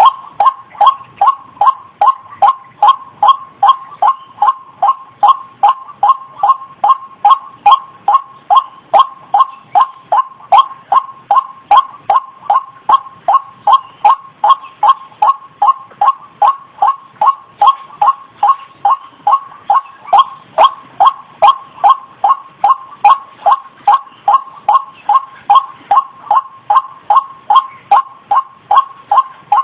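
White-breasted waterhen (ruak-ruak) lure call: one short, loud note repeated steadily, about two or three times a second, without a break.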